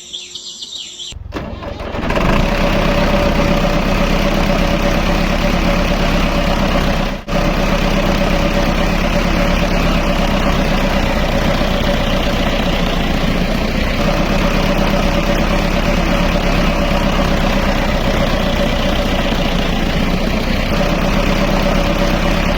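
A motor starts up about two seconds in and runs steadily with a constant whine, briefly cutting out about seven seconds in.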